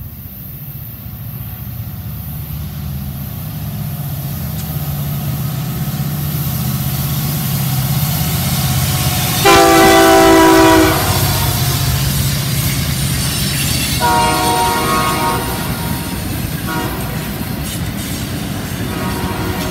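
A diesel freight locomotive approaches with its engine rumbling steadily and growing louder. About halfway through it sounds its air horn in a loud chord lasting about a second and a half, then gives a shorter blast a few seconds later. Freight cars then roll past with a steady wheel rumble.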